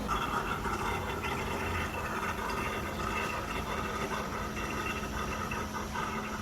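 Car engine idling steadily, with a constant hum and higher tones coming and going over it.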